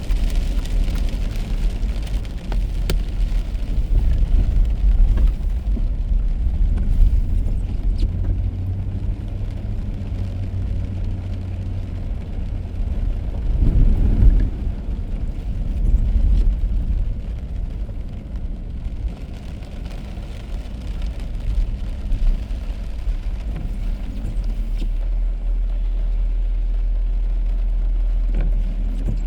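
Car driving on a wet road: a steady low rumble of tyre and engine noise, swelling briefly about halfway through.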